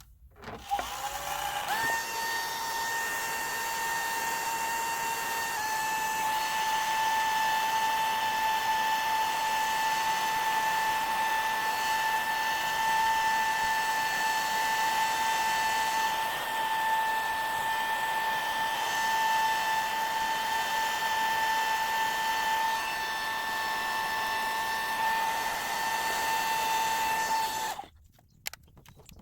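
Hand-held hair blow dryer switched on, its motor whine rising as it spins up, then running steadily with a high whine over rushing air, and switching off near the end.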